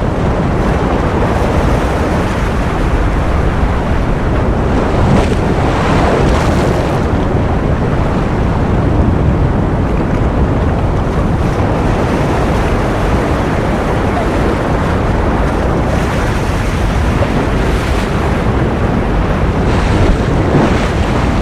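Continuous ocean surf used as white noise: a steady, dense rush of breaking waves, swelling briefly a few times as a wave washes in.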